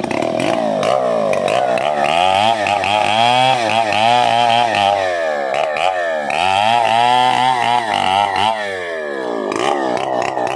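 Stihl 070 two-stroke chainsaw running, its throttle opened and closed repeatedly so the engine note rises and falls. It is held at high revs twice for about two seconds each time.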